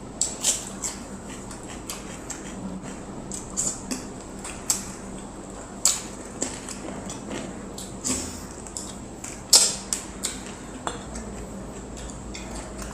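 Close-up eating sounds: chewing and food being handled on a plate, heard as irregular sharp clicks and smacks, the loudest about three-quarters of the way through.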